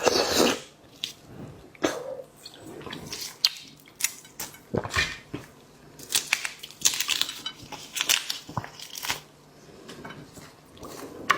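Close-miked seafood eating: irregular clicks, crunches and crackles of chewing and of shells and tableware being handled, with no steady rhythm.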